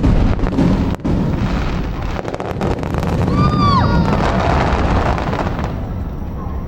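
Aerial fireworks bursting: a sharp bang at the start and another about a second in, a run of crackles around two seconds in, over a continuous low rumble of echoing booms. A short whistling tone rises and falls about three and a half seconds in.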